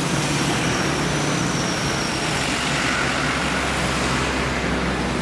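Logawa passenger train running past, a steady rolling noise with a low hum underneath.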